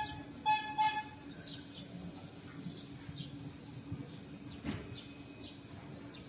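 Faint birds chirping here and there over a steady low hum. Near the start, a short run of repeated high notes at one pitch ends about a second in.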